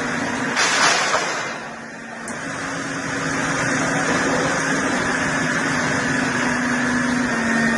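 Heavy engine-driven wood-processing machine running steadily with a constant hum. There is a short louder burst about a second in, then a brief dip before the running level returns.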